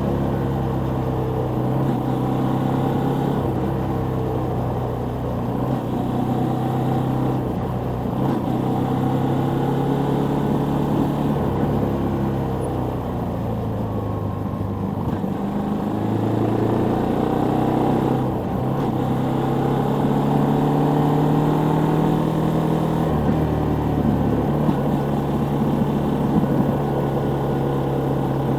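Suzuki Volty 250's air-cooled single-cylinder four-stroke engine running while the bike is ridden. The engine note rises and falls several times with changes in revs.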